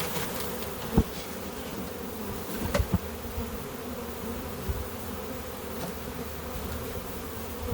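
A freshly shaken-out honey bee swarm buzzing steadily as a dense hum of many bees in the air around the hive box. A few sharp knocks sound about a second in and twice near three seconds.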